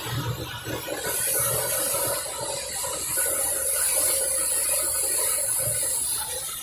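Motorboat engine running steadily under way, with a steady high hiss that comes in about a second in and fades near the end.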